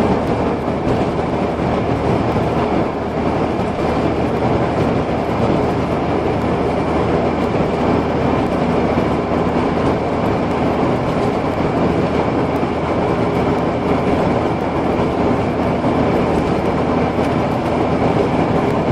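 Steady road and engine noise inside a moving car's cabin, at an even, unchanging speed.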